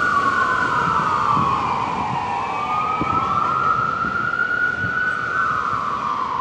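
Emergency vehicle siren in wail mode, its pitch slowly rising and falling, about three seconds per sweep.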